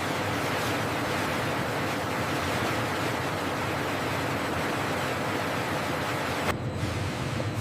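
Steady rushing noise, even and without any tone, changing abruptly about six and a half seconds in to a similar but duller rush.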